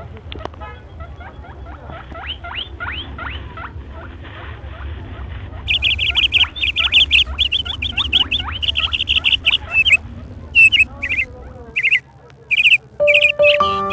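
Caged birds in a bird market chirping, many short falling calls at first, then a loud, rapid run of high chirping from about six seconds in that breaks into separate short bursts. A low steady rumble runs underneath, and piano music comes in near the end.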